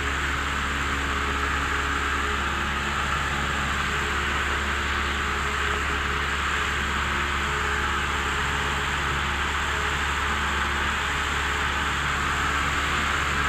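A 1976 Cessna 172M's four-cylinder Lycoming engine and propeller droning steadily in flight, heard inside the cockpit as even, unchanging noise with a few faint steady hums beneath it.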